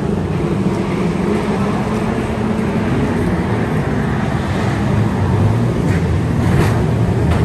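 Engines of a pack of 2-litre saloon stock cars racing around the track, a steady mixed engine drone that grows a little louder near the end.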